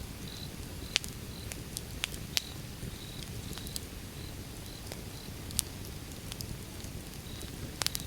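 Wood fire burning, with irregular sharp crackles and pops of the burning logs over a low steady rumble of the flames. A faint high chirp repeats about twice a second underneath.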